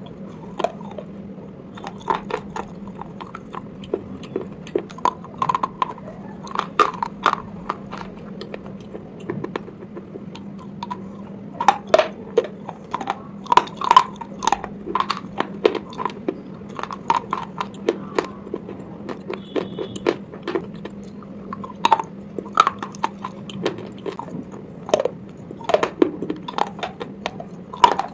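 Close-up biting and crunching of hard, chalky slate pencil pieces in the mouth: sharp, irregular crunches that come in clusters with short pauses between, over a faint steady low hum.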